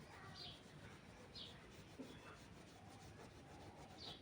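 Faint rubbing of a paintbrush on the painting surface, with a few short high bird chirps in the background.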